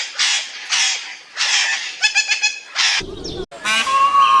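Bird calls: a run of harsh, raspy squawks, then a quick rattling call, and near the end a clearer pitched call.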